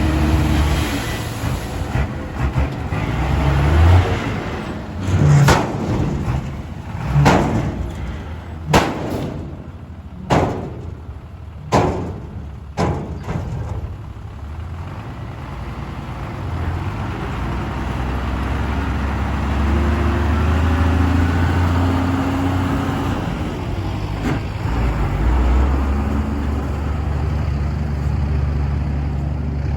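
Ten-wheel dump truck diesel engines running. Several seconds in comes a run of about six short, sharp bangs or hisses, about one to two seconds apart. After that, a steady low engine drone builds.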